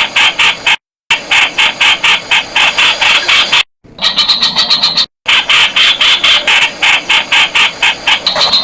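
Streak-eared bulbul (Blanford's bulbul) calling: a rapid run of harsh repeated notes, about five a second. The run is cut by three brief dead-silent gaps, as in a looped recording.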